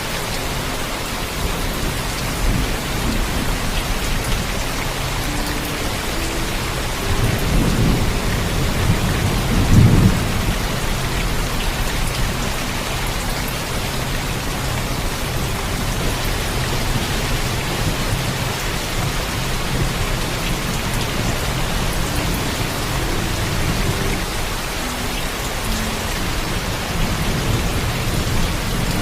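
Steady heavy rainfall with rolling thunder: a low rumble swells up about seven seconds in and peaks around ten seconds, and another rumble starts building near the end.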